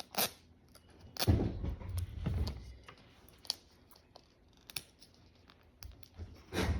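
A plastic Mini Brands capsule ball is being handled and pried open. There are scattered sharp plastic clicks, and a louder spell of rubbing and knocking about a second in.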